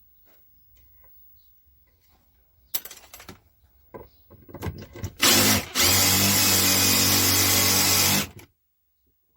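Power drill boring into a wooden chopstick: a few handling clicks and knocks, then the drill runs steadily for about three seconds and stops suddenly. The drill bit is worn and cuts poorly.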